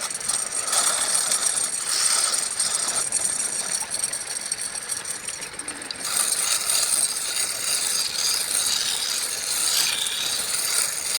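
Wood lathe spinning a workpiece while a turning tool cuts it, giving a rough scraping hiss with a rattling edge. The sound changes about six seconds in, becoming a broader, brighter hiss.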